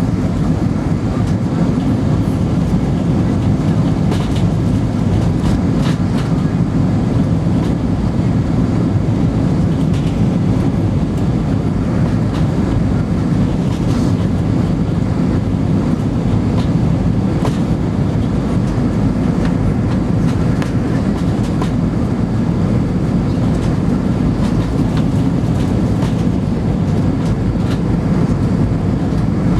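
Steady low rumble inside the cabin of an Airbus A320-212 on arrival, with scattered light clicks and knocks over it.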